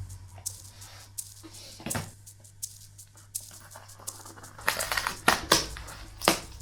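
Packaging being handled and opened: scattered clicks, a thump about two seconds in, and a run of crinkling rustles in the second half.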